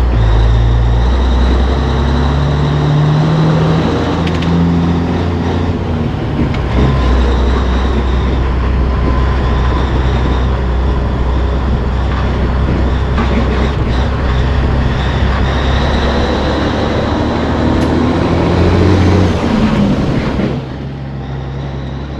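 Heavy diesel truck engine running under load, its pitch rising and falling as it revs up and drops back, and easing off about twenty seconds in.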